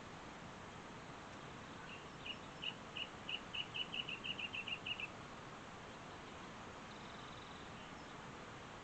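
A bird singing: a run of about fourteen short, high notes that speed up over about three seconds, over a steady background hiss.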